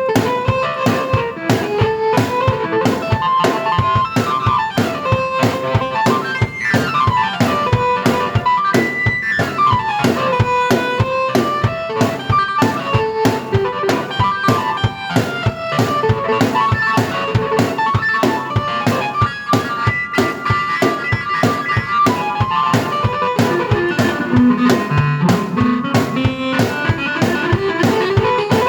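A drum kit and a keyboard played together by one player: a steady drum beat under a keyboard melody, with quick falling runs about seven and ten seconds in.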